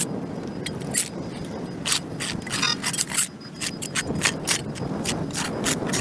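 Repeated short scraping strokes of a hand tool on a concrete sidewalk, clearing packed dirt and grass, about two to four strokes a second and uneven in rhythm.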